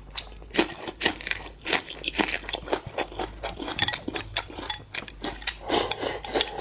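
A person biting and chewing seafood, with irregular crunches and sharp clicks several times a second.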